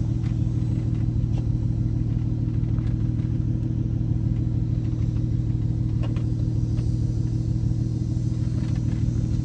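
Car engine idling steadily, an even low rumble with no revving.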